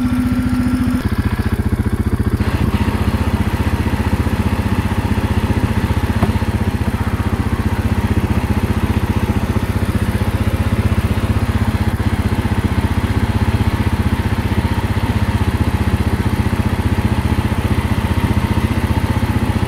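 Quad (ATV) engine running steadily, with a faint steady whine joining a couple of seconds in.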